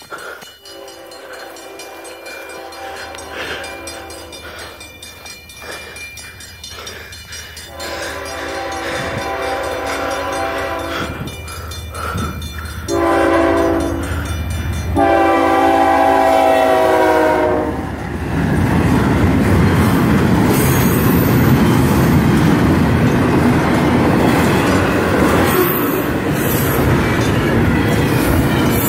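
CN diesel freight locomotive horn sounding a series of blasts, growing louder as it approaches. The locomotive and double-stack intermodal container cars then roll past with steady wheel and rail noise and a clickety-clack.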